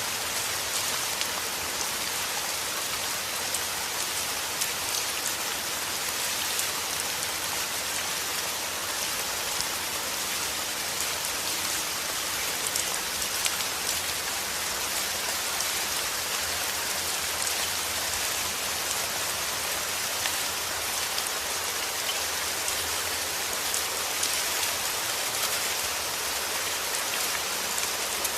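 Steady rain falling and pattering on a surface, a dense even hiss dotted with many small drop ticks.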